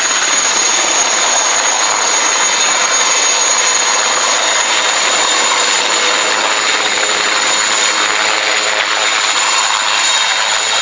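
Helicopter turbine engines running steadily: an even rushing noise with a constant high-pitched whine over it.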